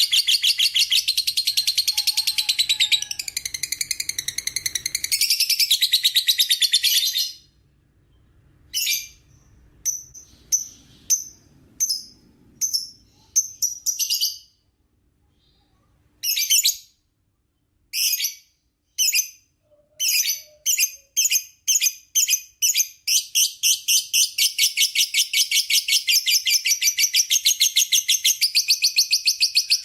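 Lovebird giving its long, rapid, shrill chattering song (the 'ngekek'). It breaks off after about seven seconds into a series of short separate bursts with brief silent gaps, then builds back into an unbroken fast chatter for the last quarter.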